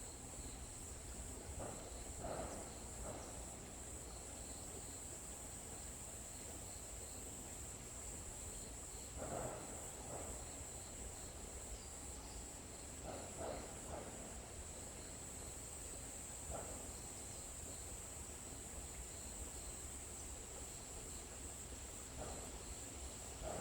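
Forest ambience with a steady, high-pitched chorus of insects such as crickets. About ten short, lower sounds come and go through it.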